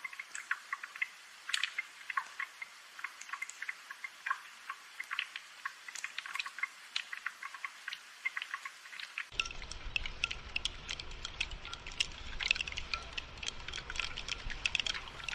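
Rain dripping and pattering: many irregular small drops ticking over a faint hiss. A low steady noise joins about nine seconds in.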